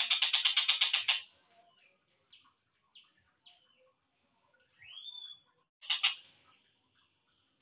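Slowed-down recording of tengkek buto (stork-billed kingfisher) calls. It opens with a rapid pulsed rattle lasting about a second. Scattered short chirps follow, then a rising upswept note about five seconds in and a brief rattle a second later.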